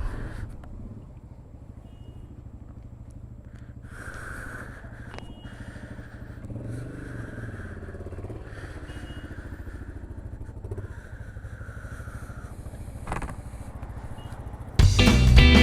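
BMW R1200GS boxer-twin engine running at low revs, a steady low pulsing with some hiss, and a single knock near the end. Loud music starts again just before the end.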